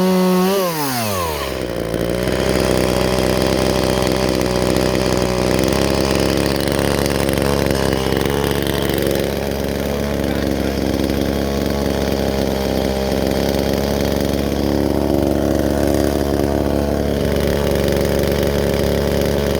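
Chainsaw at full throttle whose revs drop sharply about a second in, then idling steadily.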